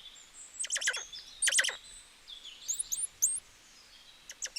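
Frogs calling in short trains of rapid clicks, with a few quick rising high chirps about three seconds in and a faint steady high-pitched chorus behind.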